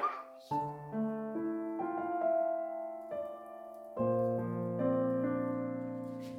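Soft background piano music playing slow, held chords that change every second or so, with a fuller low chord about four seconds in. A short click sounds right at the start.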